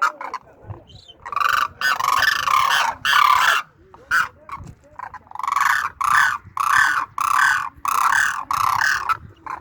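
Demoiselle cranes (koonj) calling with loud, raspy, rolling calls: a quick cluster, a single call, then a run of about eight calls roughly half a second apart.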